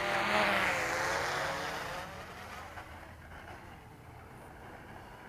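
Electric motor of an RC airplane whining, its pitch falling as it winds down. It fades out about two seconds in as the plane comes in to land.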